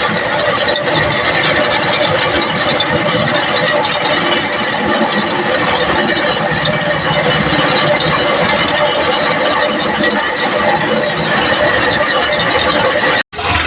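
Abrasive power tool working the steel of a rusty knife blade, a steady gritty scraping noise without pause. It cuts off abruptly near the end.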